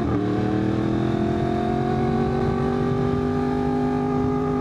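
Yamaha R1 inline-four sport motorcycle engine accelerating under load: a quick upshift right at the start, then the engine note climbing slowly and steadily in pitch.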